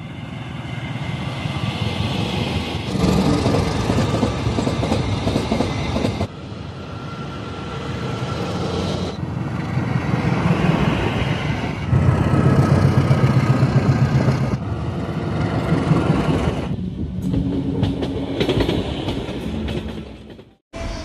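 Diesel locomotive-hauled passenger trains passing, engines running and wheels clattering over the rail joints. The sound comes as a string of short clips that change abruptly every few seconds, and it drops out briefly near the end.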